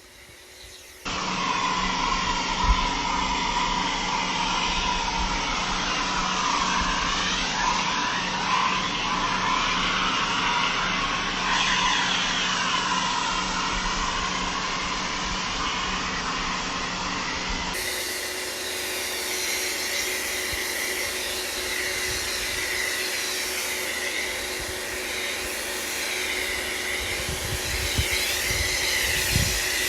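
Pressure washer running and spraying snow foam through a foam lance: a steady hiss of spray over a motor hum. The sound changes abruptly about 18 seconds in, the low hum dropping away.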